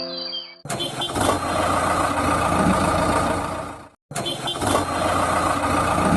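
A small engine running steadily, heard in two clips with an abrupt dropout about four seconds in. At the start, music with birdsong cuts off.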